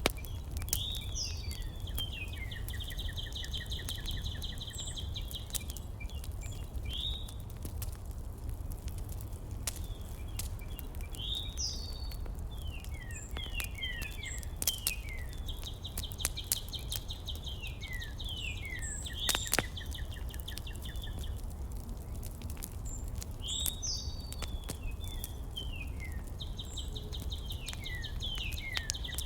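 A songbird singing the same phrase over and over, about every 11 seconds: a few quick downward-sliding whistles, then a long buzzy trill. Under it runs a steady low rumble, with scattered faint clicks.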